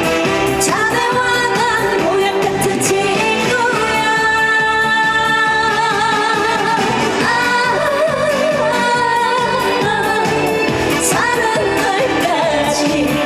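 A woman sings a Korean trot song live over a loud backing track with a steady beat, holding long, slightly wavering notes.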